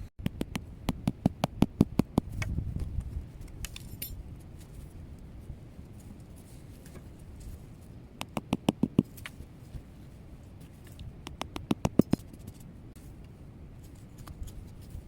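Metal clinking against a cooking pot in three quick runs of light, rapid taps: one at the start, one about eight seconds in and one about eleven seconds in.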